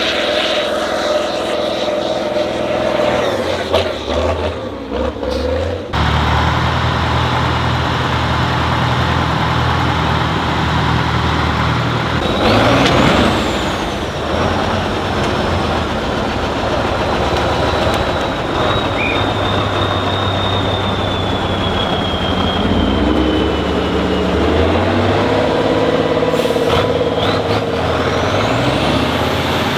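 Heavy off-road trial truck's diesel engine running and revving, its pitch rising and falling and changing abruptly about six seconds in. A thin high whistle rises and then slowly falls over the middle of the clip.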